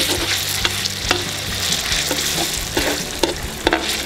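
Vegetable oil sizzling steadily in a kazan as onions, carrots, sweet pepper and tomato paste fry, with a perforated metal spatula scraping the pot in repeated strokes as the paste is stirred.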